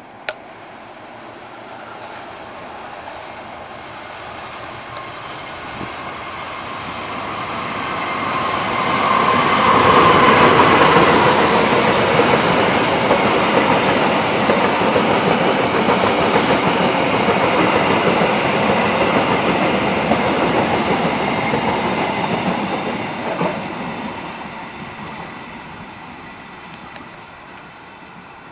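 A passenger train with a diesel locomotive passing: the sound builds over about ten seconds as it approaches. It stays loud for about twelve seconds while the coaches' wheels run by on the rails, then fades as the train moves away.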